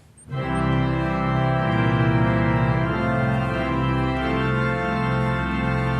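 Organ starts up about a third of a second in and plays full sustained chords over a deep bass: the closing voluntary after the dismissal.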